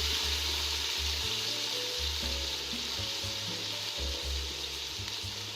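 Oil sizzling steadily in a cooking pot, with soft background music underneath.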